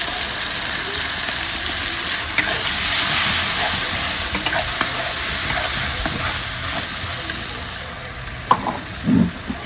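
Ground spice paste frying and sizzling in hot oil in a pan, stirred with a spatula that clicks and scrapes against the pan now and then. The sizzle swells briefly about three seconds in.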